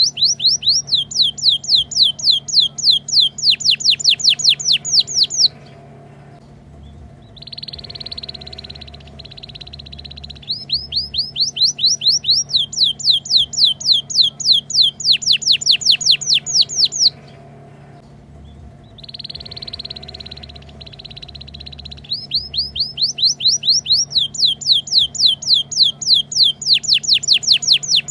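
Canary song: a buzzy held note followed by a long run of fast, falling whistled notes, several per second. The phrase repeats about every twelve seconds, as in a 'ngriwik' master track for teaching young canaries to sing.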